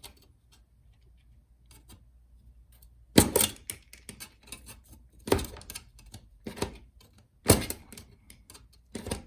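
Small hand tools clicking and scraping against a MacBook Pro's top case while prying out keyboard rivets: four sharp clicks about two seconds apart, with light scratching between them.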